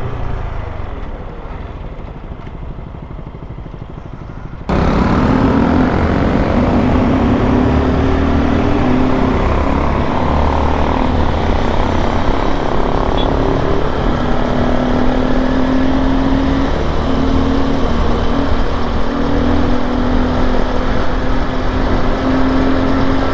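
Honda XRE 190 single-cylinder motorcycle engine running on the move, with a heavy low rumble of wind on the microphone. For the first few seconds the engine note falls and the sound is quieter; about five seconds in it jumps abruptly louder and holds a fairly steady cruising note.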